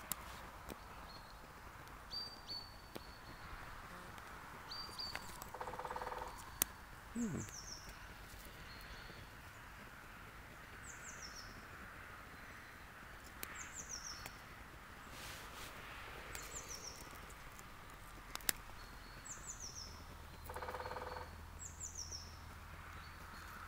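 Woodland birdsong: a small bird repeats a short, high, falling phrase every two to three seconds, with a few other higher chirps, over a quiet outdoor background. A couple of sharp clicks are also heard.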